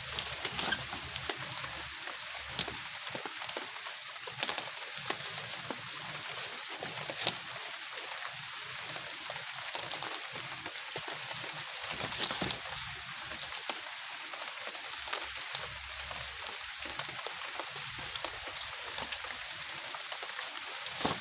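Steady rain hiss, with occasional sharp clicks and knocks.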